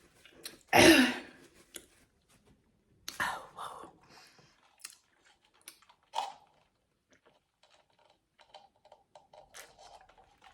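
A person eating close to the microphone: chewing and wet mouth sounds. There are louder bursts just under a second in, about three seconds in and about six seconds in, and faint clicking smacks after that.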